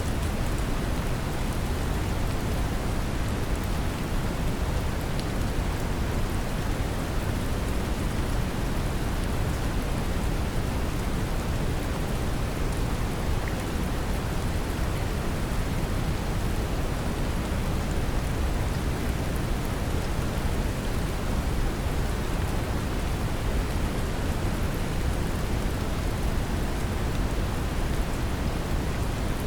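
Steady brown noise, a deep even hiss weighted toward the lows, mixed with gentle rain.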